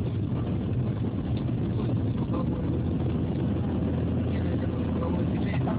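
Steady low rumble of a car being driven, heard from inside the cabin: engine and tyre noise at an even level.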